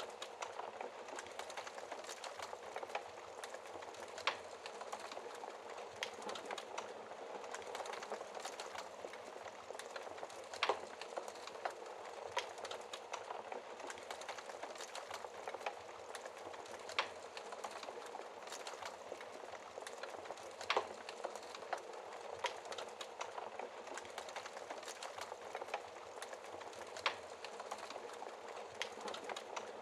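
Wood fire burning in a fireplace. The flames keep up a steady soft hiss, with frequent small crackles and a handful of louder pops from the burning logs.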